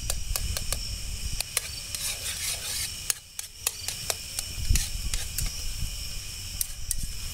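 A metal spoon stirring and scraping in a cast iron frying pan, a run of irregular clicks and scrapes as cream cheese is worked into browned deer sausage, over a steady high drone of insects.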